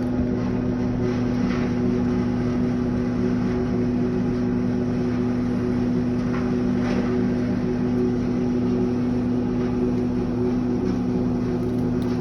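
Engine of tree-cutting equipment running at a constant speed, a steady drone whose pitch does not change.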